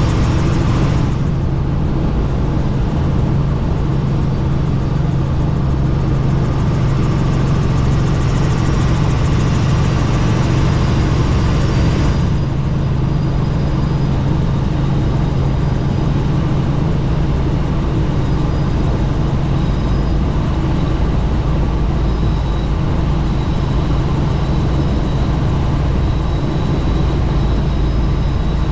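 Helicopter running steadily, a constant loud low drone of rotor and engine under a rushing hiss, the hiss thinning in its upper part about twelve seconds in.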